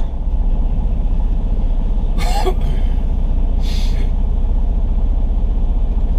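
Truck engine idling with a steady low rumble, broken by two short hissing noises about two and three and a half seconds in.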